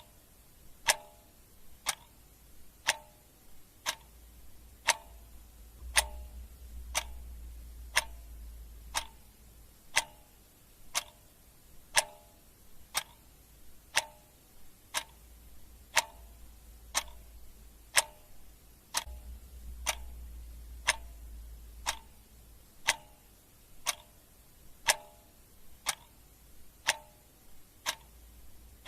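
Clock ticking sound effect: a steady, even tick about once a second, each a sharp click with a short ring.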